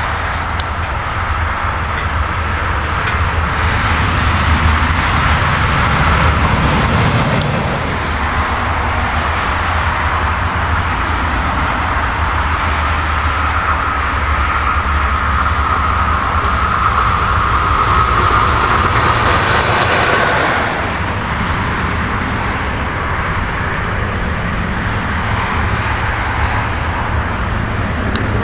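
Electric trains passing on a mainline: a steady rumble and rolling noise of wheels on track. The sound shifts sharply about 8 seconds in and again about 21 seconds in.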